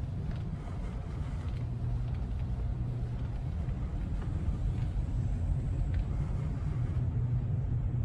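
Steady low engine rumble with a deep hum, and a few faint clicks over it.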